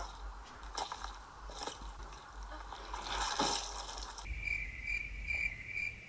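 Crickets chirping in a steady pulsing rhythm on the film's soundtrack, cutting in abruptly about four seconds in; before that, quiet outdoor ambience with a few soft rustles.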